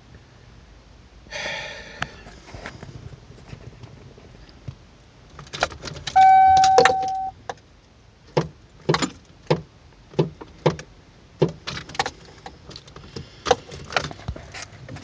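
A 1993 Ford Ranger that won't crank: a run of sharp single clicks, about one or two a second, as the key is turned again and again and the starter does not turn the engine over. The owner places the click at the starter relay and hopes the fault is the relay rather than the starter. Earlier there is a brief rustle and one loud beep lasting under a second.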